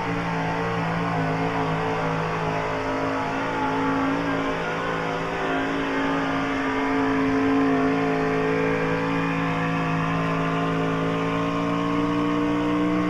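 Gas-engine pulling truck running flat out under load while pulling a sled, its engine held at high revs with the pitch creeping slowly upward.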